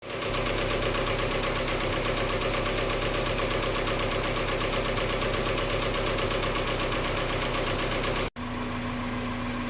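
Mazda Miata four-cylinder engine idling with a fast, steady lifter tick. About eight seconds in, the sound cuts off for an instant and resumes as a steadier idle with little ticking.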